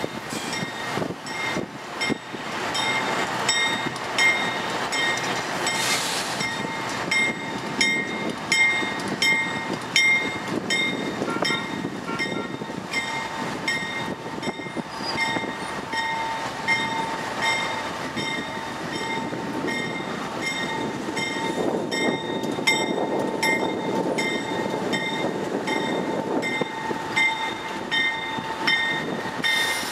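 Norfolk Southern freight train rolling past: diesel locomotives, then Triple Crown RoadRailer trailers, with a steady rumble of wheels on rail. A thin steady squeal sets in a couple of seconds in. A high metallic tick repeats about every two-thirds of a second.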